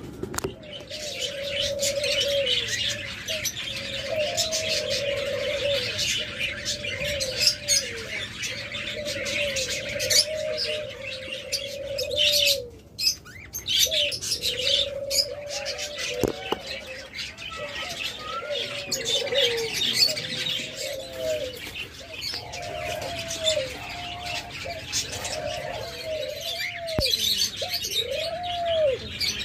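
Caged doves cooing over and over, with a dense chorus of small cage birds chirping high above them, as in a busy aviary. The coos grow clearer and more separate toward the end.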